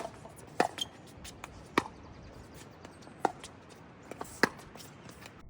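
Pickleball paddles hitting a plastic pickleball back and forth in a rally, about six sharp pops at uneven intervals. The sound cuts off suddenly near the end.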